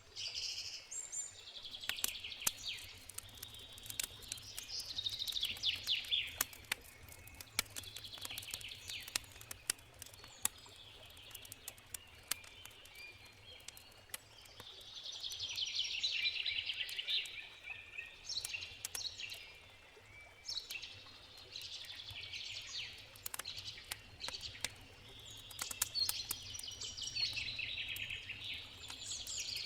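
Campfire crackling with frequent sharp pops, while songbirds sing repeated twittering phrases over a faint steady river rush.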